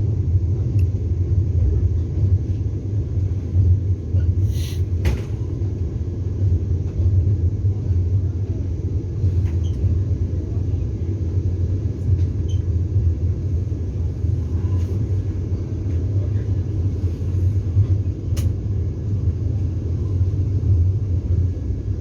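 Steady low rumble inside a Vande Bharat Express coach, with a few faint clicks and a short knock about five seconds in.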